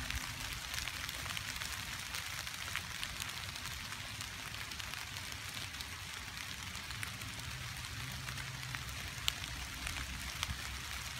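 Steady rain falling on ground covered in fallen leaves: an even hiss scattered with many small drop ticks, over a low rumble.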